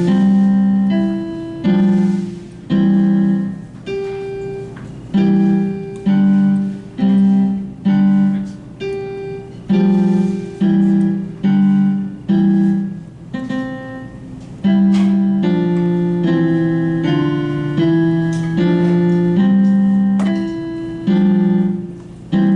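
Solo piano playing a minuet: a simple melody of single struck notes at a steady, moderate pace, each note sounding and then fading.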